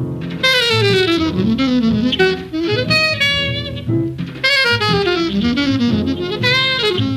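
Bebop jazz from a 1947 quintet recording played from vinyl: an alto saxophone plays fast runs, many of them descending, over walking bass and drums.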